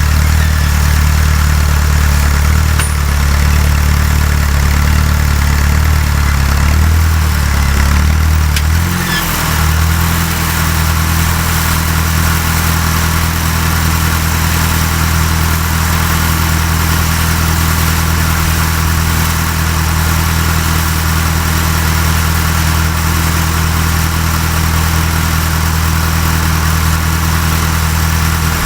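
Fiat 352C tractor engine running steadily, pulling a plough. About nine seconds in its note briefly dips, then settles at a different steady pitch.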